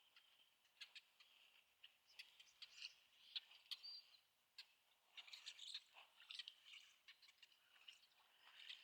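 Faint, busy chirps and twitters of small birds, mixed with many short irregular clicks and crackles, with a brief clear high note about halfway through.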